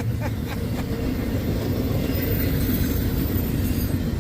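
Passing CSX train: the steady rumble of its cars rolling over the rails close by.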